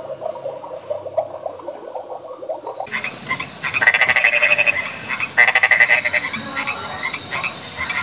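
Frog croaking in trains of quick, rattling pulses, starting about three seconds in, with a short break around the middle.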